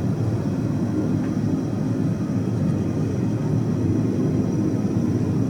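Forge running with a steady low rumble while steel heats in it.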